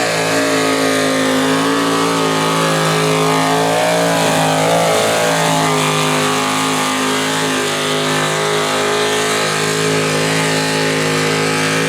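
Modified pulling tractor's engine running at high, nearly steady revs under heavy load during a pull, its pitch wavering slightly partway through.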